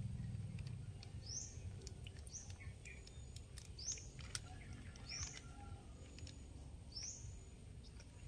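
A bird calling repeatedly: about six short, high chirps, each sweeping downward in pitch, a second or so apart, over a faint low rumble.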